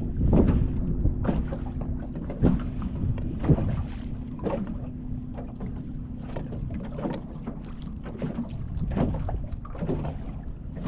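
Wind buffeting the microphone on a small fishing boat, coming in irregular gusts and thumps over a steady low hum.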